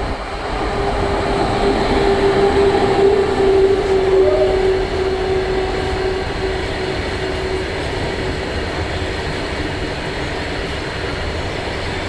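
Freight train hauled by a WAG9 electric locomotive running through a station, a continuous rumble of wheels on rails. A steady hum rides on top through the first half and fades out about two-thirds of the way through.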